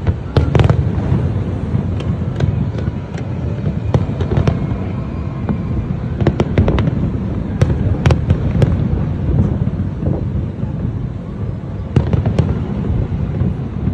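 Aerial fireworks exploding, a continuous low rumble of bursts with many sharp cracks, several clusters of them near the start, around the middle and near the end.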